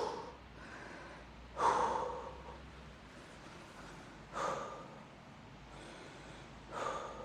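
A man breathing hard between muscle-up reps, with three short, forceful exhales about two and a half seconds apart.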